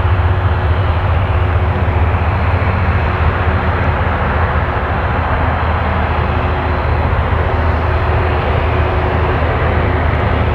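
Jet engine noise from a Boeing 767-300 airliner: a loud, steady, low rumble.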